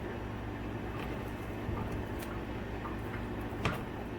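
Steady low background hum with a few soft clicks, and one sharper tap near the end, from chopped onion and chicken being handled in a mixing bowl.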